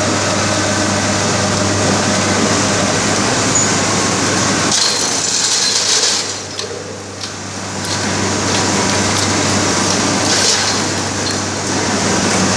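Sugar mill cane carrier chain conveyors and mill machinery running with a steady, loud mechanical din and a constant low hum. There are occasional metallic clatters, and the noise dips briefly past the middle.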